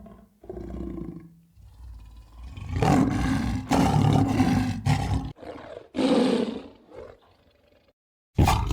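A large animal calling loudly: a run of harsh, pitched calls from about three to five seconds in and another shorter call about six seconds in. A different loud sound starts abruptly near the end.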